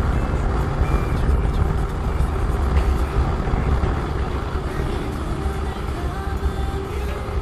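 Motorcycle riding at speed on the road: engine running under a heavy, steady wind rumble on the microphone.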